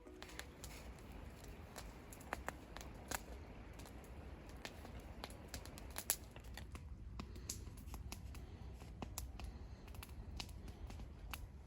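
Scattered small sharp clicks and scratches, one louder click about six seconds in, over a low steady rumble.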